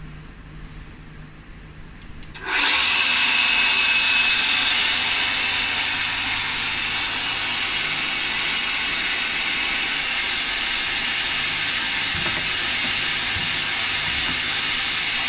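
Schaublin 110-CNC lathe running: after a low hum, a loud steady machine hiss with a faint high whine in it starts suddenly about two and a half seconds in and holds level.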